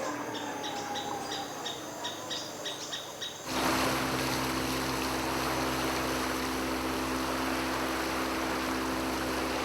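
Jungle ambience with a run of short high chirps and a brief whistled call. About three and a half seconds in it cuts suddenly to a boat's motor running steadily, with a rush of water.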